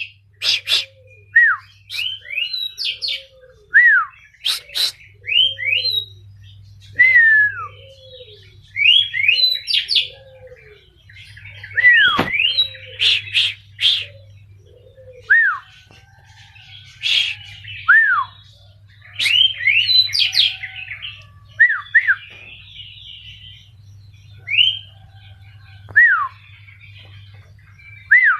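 Oriental magpie-robin (kacer) singing a loud, varied song of clear falling whistles, sharp rising chirps and buzzy notes, in short phrases every second or two. A softer, lower falling note repeats through the first half.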